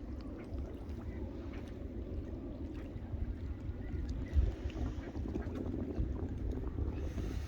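Wind buffeting the microphone: an uneven low rumble that rises and falls in gusts, with one louder bump about four seconds in.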